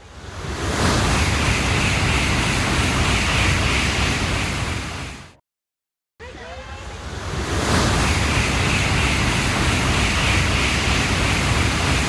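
Shinkansen bullet train rushing past at high speed, a broad whoosh of air and wheels that swells up and then dies away. It is heard twice, with a sudden cut and a brief silence between the two passes.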